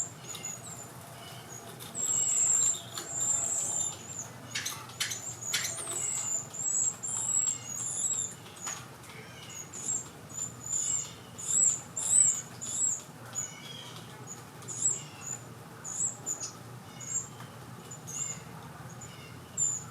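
Carolina wren nestlings giving thin, high-pitched begging chirps, short and repeated many times, with a few rustles about five seconds in.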